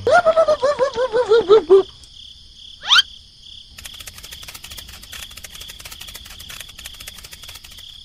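Cartoon sound effects: a quick run of warbling squeaky chirps falling in pitch, a short rising zip about three seconds in, then steady rapid clicking over a constant high insect-like drone.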